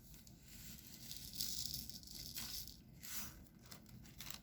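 Faint scratchy rustling in a few short bursts from hands working a diamond painting kit.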